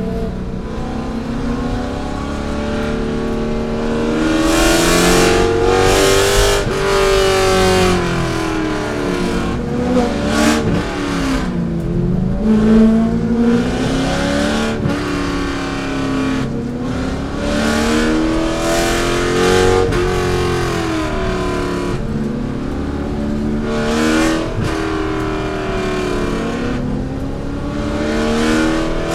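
C5 Corvette's 5.7-litre V8 race engine at racing speed, its pitch climbing under acceleration and falling away under braking and downshifts, several times over.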